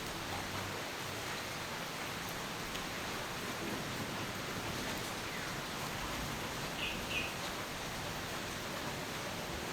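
Steady rain falling as an even hiss, with two short bird chirps about seven seconds in.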